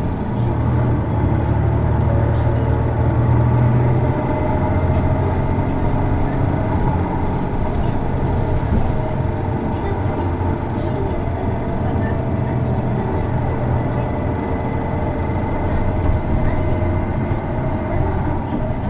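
Isuzu Erga city bus's six-cylinder diesel engine running as the bus drives, heard from inside the passenger cabin: a steady drone that eases slightly about four seconds in. This particular bus's engine is known for a distinctive odd noise, a trait seen in other PKG-era Ergas.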